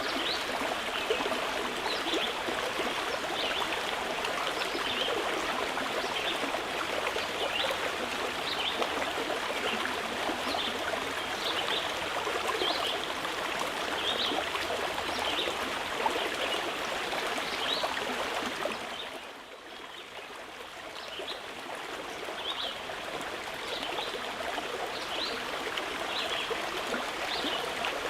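Mountain river rushing steadily, with small birds giving short high chirps over it. The water dips in level for a second or two about two-thirds through, then swells back.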